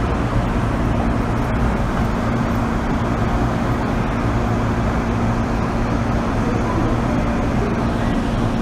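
Interior running noise of an MTR M-Train on the Kwun Tong Line: a steady rumble of wheels on rail with an unchanging low hum, the train cruising between stations.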